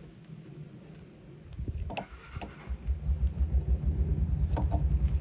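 Small engine running with an even low pulsing of about ten beats a second, starting a little over halfway through, after a few knocks from handling.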